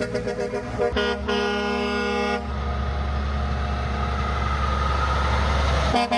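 Truck air horns sounding: a few short toots, then one long blast of about a second and a half, followed by a heavy truck's deep engine rumble as it passes, with short toots starting again near the end.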